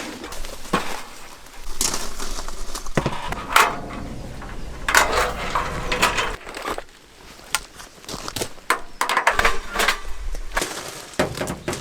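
Irregular crunching, crackling and knocking of things being handled, in short bursts with brief pauses between them.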